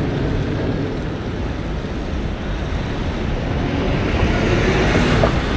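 Steady road, wind and engine noise of a tractor-trailer under way, heard from inside the cab.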